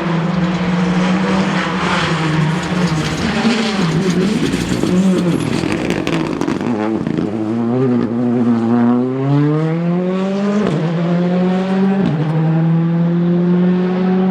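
Rally car engine at high revs, easing off about four seconds in, then accelerating hard with a rising pitch and two quick upshifts near the end.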